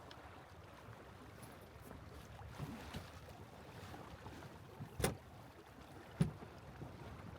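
Wind and water noise aboard a small sailboat under way, with two sharp knocks a little over a second apart near the end.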